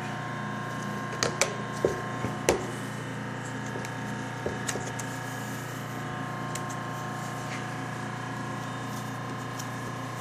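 A few sharp clicks and light knocks of plastic flaps and pleated filter media from an Aprilaire 201 air cleaner being unhooked and handled, mostly in the first few seconds, over a steady hum.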